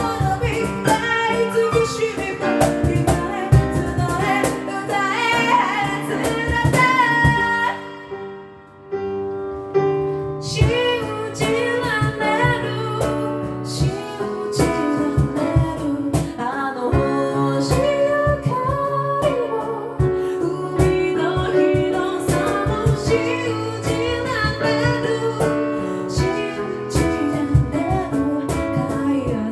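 A cappella group singing in several layered vocal parts, with a female lead and a steady beat of vocal percussion. About eight seconds in, the beat drops out and the sound thins to a softer, quieter passage for a couple of seconds. The full arrangement comes back in at about ten seconds.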